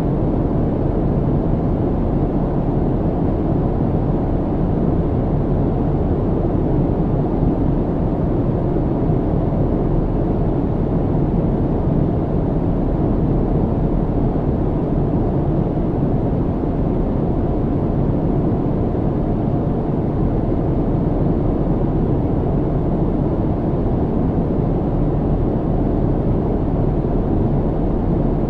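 Steady low rumble of jet airliner cabin noise in flight, even and unchanging, with most of its weight in the low end and little hiss above.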